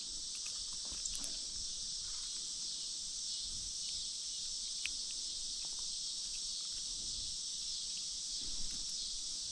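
Steady, high-pitched insect chorus buzzing without a break, with a few faint clicks.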